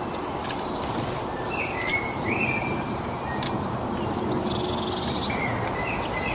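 Several small birds chirping, with a short buzzy trill about five seconds in, over steady outdoor background noise.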